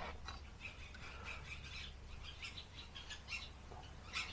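Faint, scattered chirps of small birds over a steady low hum, with a single click near the end.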